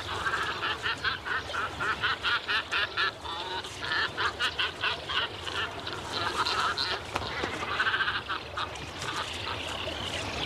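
Birds of a waterbird breeding colony calling: runs of rapid, repeated nasal calls, several bouts one after another, with more calls going on underneath.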